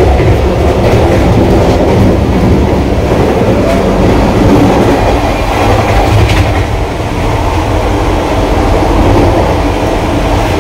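Running noise of a Vande Bharat Express electric train heard from inside a coach while it travels along the line: a loud, steady rumble of wheels on the track.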